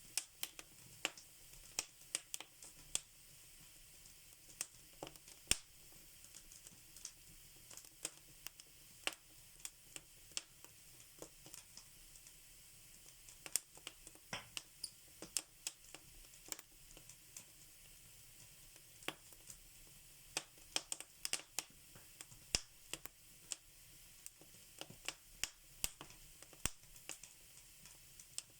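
Fire in a fireplace crackling: irregular sharp pops and snaps, sometimes in quick clusters, over a faint steady hiss.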